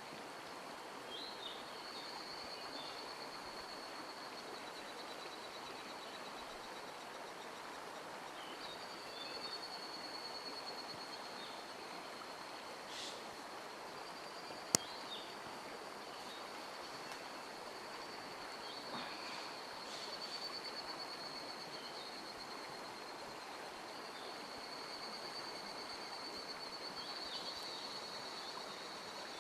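Mountain stream water running steadily, with a high continuous trill from an insect and a few short bird chirps over it. A single sharp click comes about halfway through.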